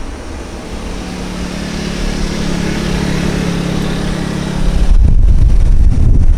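Jet airliner engines passing, a rising roar with a steady low hum beneath. About five seconds in, heavy wind buffeting on the microphone takes over.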